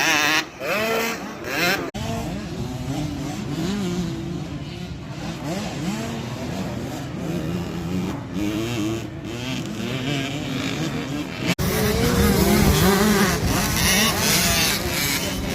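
Small two-stroke motocross bikes, a KTM 65 among them, racing with engines revving up and down through the gears. The sound jumps abruptly twice, about two seconds in and again near twelve seconds, and is loudest after the second jump.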